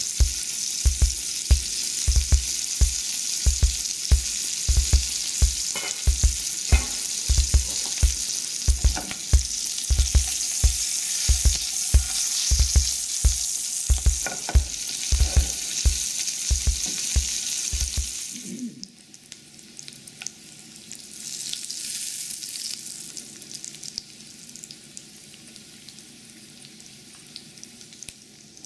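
Malabar chestnut seeds sizzling as they fry in oil in a nonstick skillet: a dense, steady hiss that drops to a fainter sizzle about 18 seconds in. Until then a low thump repeats evenly about twice a second and cuts off with the louder sizzle.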